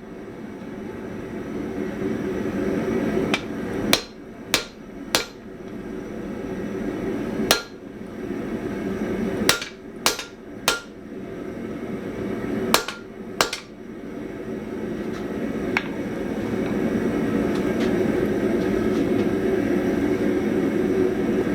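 Hand hammer striking hot spring steel on an anvil, about nine blows in groups of two or three roughly half a second apart, as the awry end of a shear rein is tidied up; the blows stop about two thirds of the way in. A steady rushing roar runs underneath and grows louder in the last third.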